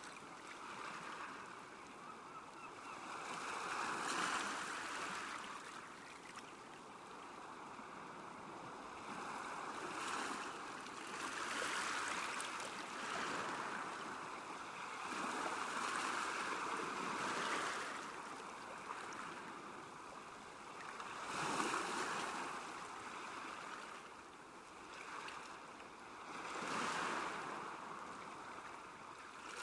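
Small waves lapping at a lake shore, the wash of water swelling and falling away every few seconds.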